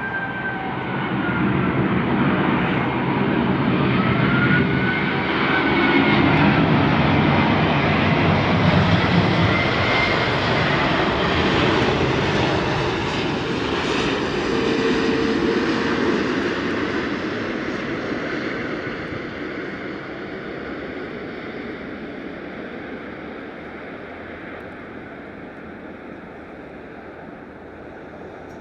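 Jet engines of an Emirates Airbus A380 on its arrival approach as it passes by. A broad rushing noise builds over the first several seconds, with whining tones that bend up and down in pitch, and then fades slowly through the second half.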